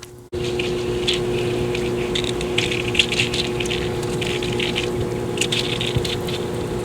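Lake water pump running: a steady hum with irregular splashing of churned water over it, starting abruptly just after the beginning.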